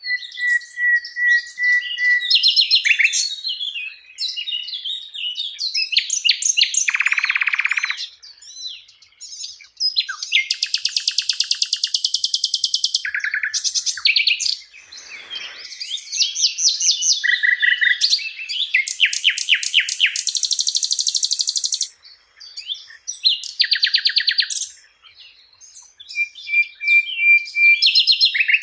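Sikatan londo flycatcher singing a long, varied song: clear whistled notes near 2 kHz, fast high trills and buzzy rattles, in bursts of a second or two separated by short pauses.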